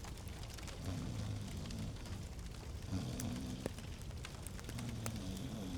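Fireplace log fire crackling, with irregular sharp pops and snaps over a low, wavering rumble.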